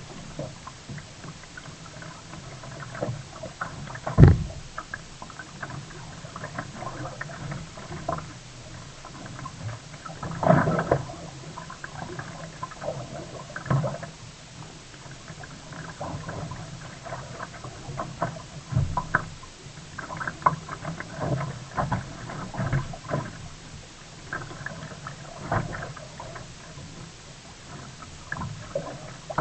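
Water splashing and gurgling around a sea kayak as it is paddled, in short irregular surges. There is one sharp thump about four seconds in, the loudest sound.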